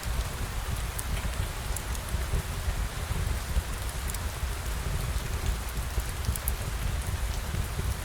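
Steady rain falling and pattering on surfaces, with a low rumble beneath and scattered light ticks of drops.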